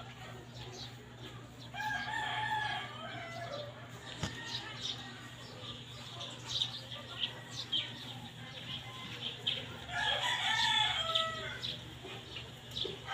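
Rooster crowing twice, once about two seconds in and again near ten seconds, over a steady low hum.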